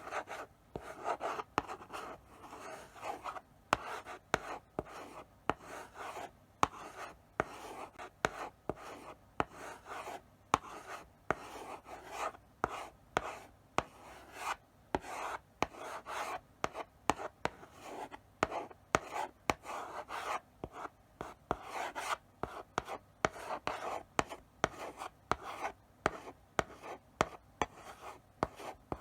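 Chalk writing slowly on a blackboard: a steady run of short scraping strokes, each ending in a sharp tap as the chalk meets or leaves the board.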